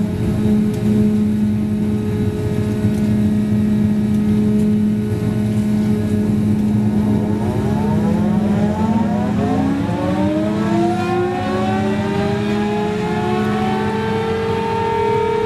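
Boeing 929 jetfoil's gas turbine starting up, heard from inside the passenger cabin: a steady drone, then a whine that rises in pitch from about seven seconds in and levels off near the end.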